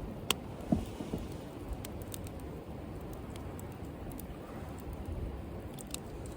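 Wood fire crackling in a compact fire pit: a few scattered sharp pops over a low steady rumble.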